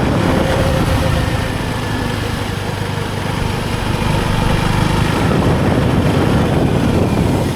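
KTM Duke 390's single-cylinder motorcycle engine running steadily.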